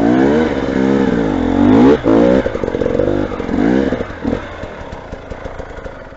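Motorcycle engine revving, its pitch rising and falling several times, then fading away over the last couple of seconds.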